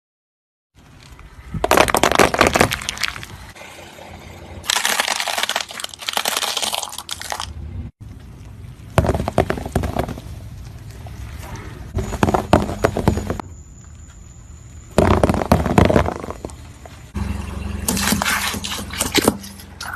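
Slime being squished and worked, giving dense crackling and popping clicks in several loud bursts with quieter stretches between.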